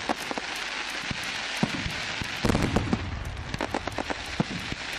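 Fireworks going off: rapid crackling and popping over a steady hiss, with a cluster of louder bangs about halfway through.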